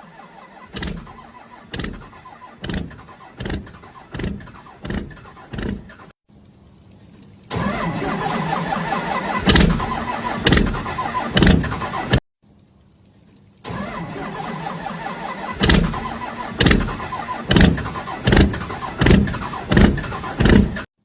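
Small motorbike engine running unevenly, chugging with regular loud pops of about one and a half a second, heard in three separate clips that cut off suddenly, the middle one the loudest.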